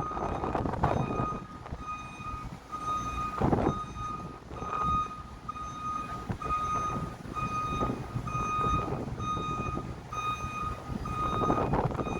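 An electronic warning beeper sounding over and over, about three beeps every two seconds, like a backup alarm, over rumbling background noise with a few louder swells.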